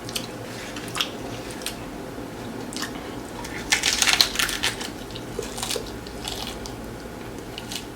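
Crunchy hard-shell taco being bitten and chewed close to the microphone: scattered crisp crunches, with the loudest run of crackling about halfway through.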